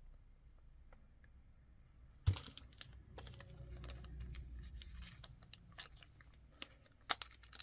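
Bead packaging being handled, with small clicks and rustling. A sharp click comes a little over two seconds in, and the handling runs on to the end.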